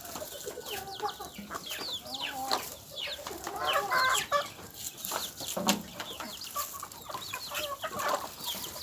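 A flock of chickens clucking and calling, many short calls overlapping, with scattered sharp clicks among them.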